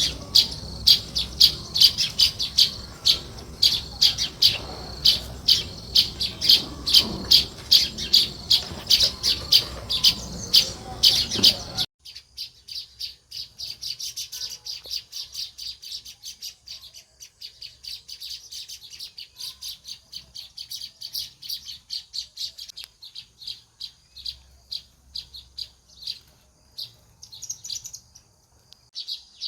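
House sparrows chirping, a quick run of short repeated chirps. About twelve seconds in the sound cuts abruptly to quieter chirping with less background noise.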